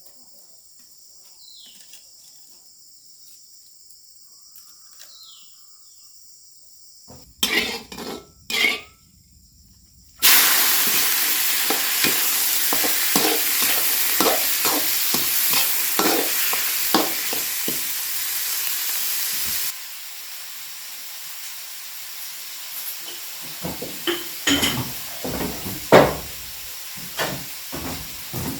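Food frying in hot oil. Near-quiet at first, with a steady high hum and a couple of knocks; about ten seconds in, food goes into the oil and it sizzles loudly. About twenty seconds in, the sizzle drops lower, with scrapes and clatters of stirring.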